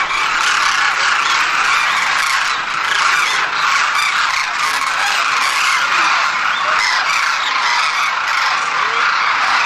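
A large flock of birds making a steady, dense din of many calls at once.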